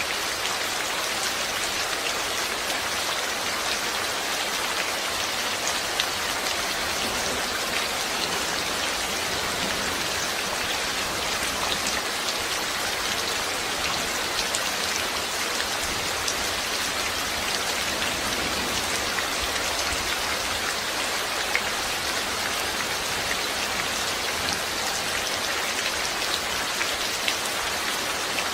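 Steady rain falling on a surface: an even hiss with scattered ticks of single drops.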